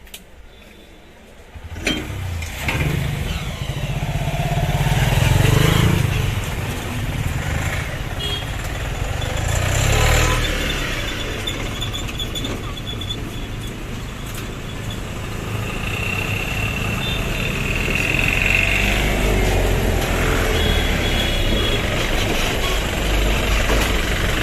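Road traffic at a level crossing: vehicle and motorcycle engines start up about two seconds in and keep running as vehicles move through, swelling louder twice as they pass close.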